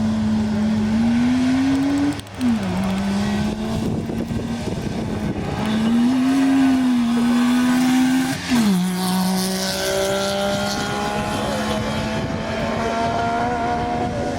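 Rally car engine running hard on a gravel special stage, its note climbing and then dropping sharply twice, about two and eight and a half seconds in, as it shifts up through the gears.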